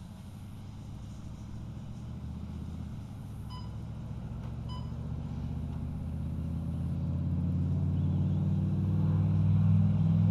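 A low-pitched vehicle engine running at a steady note, growing steadily louder as it comes closer. Two short beeps sound about a third of the way in.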